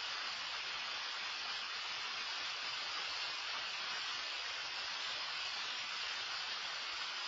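Loud rain falling, a steady even hiss.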